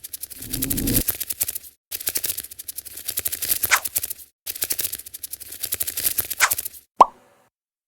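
Looped sound effect of rapid scratchy clicking, like a small creature scuttling, in bursts of about two seconds separated by short breaks, with a brief chirp inside two of the bursts. A single short, sharp pop comes near the end.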